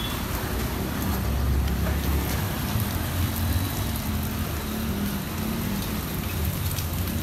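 A car engine running close by, a low steady rumble with a wavering hum, under a constant hiss of street noise.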